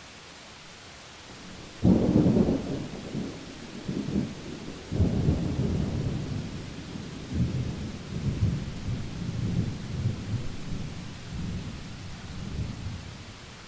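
Thunder over steady rain: a sudden close crack about two seconds in, followed by a long rumble that rolls on and fades near the end.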